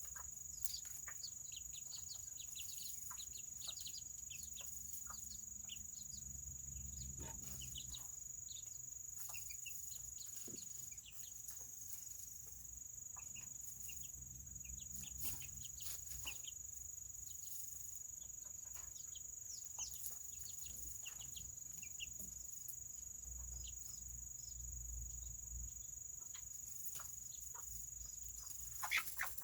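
Serama bantam chickens making many short, soft clucks and peeps throughout, over a steady high-pitched whine.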